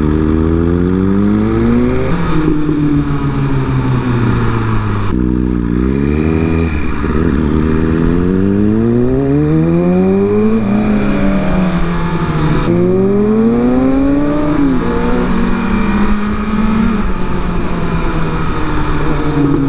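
Inline-four sport motorcycle engine pulling hard, its pitch climbing through the revs and dropping suddenly at each gear change, several times over, with wind noise on the microphone.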